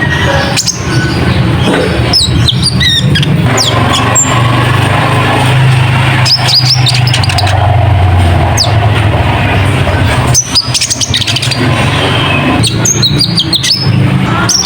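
Konin (kolibri ninja) bird lure recording: clusters of short, high, downward-sweeping chirps in quick bursts, over a loud steady low rumble.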